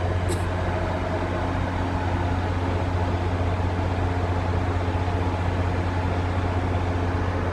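Commuter rail diesel locomotive idling at a station, a steady deep drone with a hum of engine tones above it. A single brief click sounds shortly after the start.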